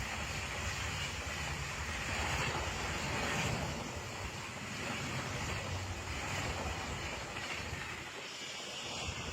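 Passenger train passing at speed: a steady rushing rumble of wheels on the rails, with the low rumble dropping away near the end as it goes by.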